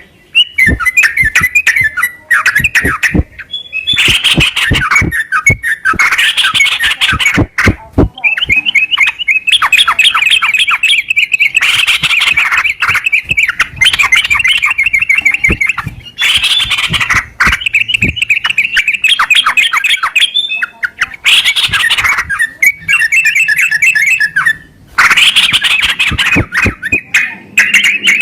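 Sooty-headed bulbul (trucukan) song: loud phrases of rapidly repeated chattering notes lasting several seconds, broken by short pauses.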